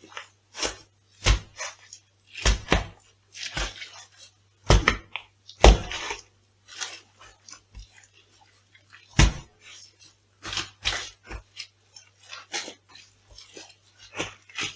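Food being crushed underfoot: a string of irregular crunches and thuds, several of them sharp and loud, over a faint steady low hum.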